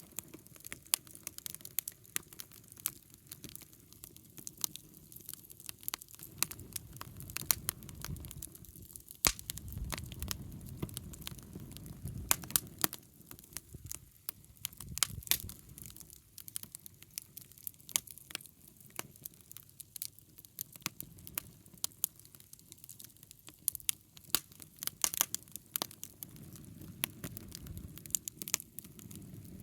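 Wood fire crackling, with frequent sharp irregular pops and snaps over a low rumble of the flames.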